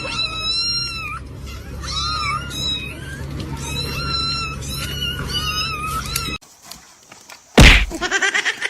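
A cat meowing over and over in high, wavering calls for about six seconds. After a sudden cut comes a loud thump near the end, followed by a quick run of short sounds.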